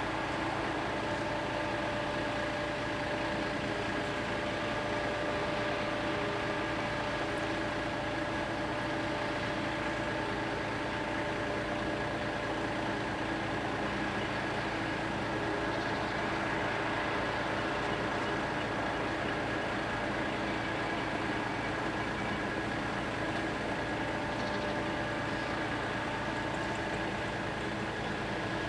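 An engine running steadily, an even hum with a few steady tones held throughout, at a railway level crossing where a freight train passes.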